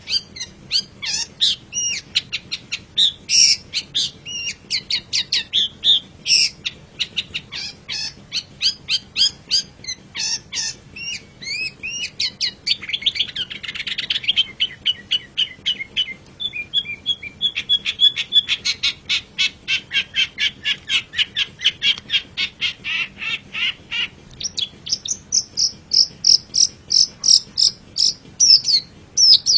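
Long-tailed shrike (cendet) singing a fast, varied, chattering song of short high notes. About 13 seconds in there is a harsh buzzy stretch, then a rapid even trill until about 24 seconds, then higher, sharper notes near the end.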